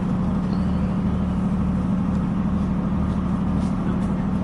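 A diesel passenger train's steady drone heard inside the carriage: an even low hum with a slow throb beneath it and no change in level.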